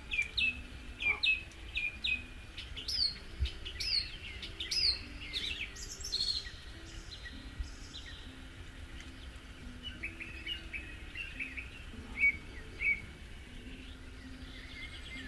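Songbirds singing: a quick run of short, sharp chirps that sweep downward, dense for the first six seconds or so, then sparser.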